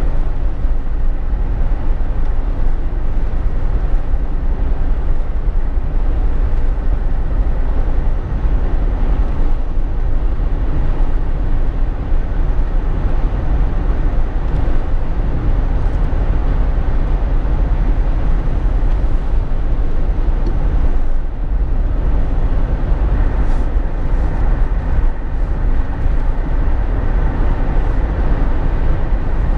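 Steady drone inside a Jeep Wrangler JK's cabin while driving: deep rumble of tyres, engine and wind, with a little dip about two-thirds of the way through.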